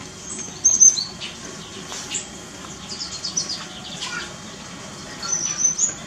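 Small aviary birds chirping and whistling: many short high calls scattered through, the loudest about half a second in and again near the end.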